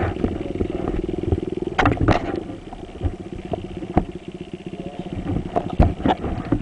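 Dirt bike engine running steadily, with several sharp knocks and clatter over it, the loudest about two seconds in and near the end.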